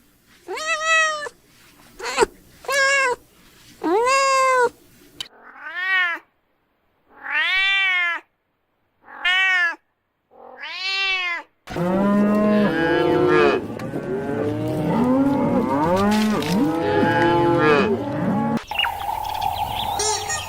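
Cats meowing: a run of separate rising-and-falling meows, then from about twelve seconds in several cats meowing at once, overlapping. Near the end the calls give way to a different sound with small chirps.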